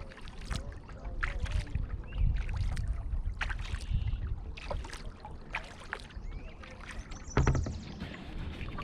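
Kayak paddle strokes dipping and splashing in the water, roughly once a second, with one louder splash near the end. Wind rumbles on the microphone throughout.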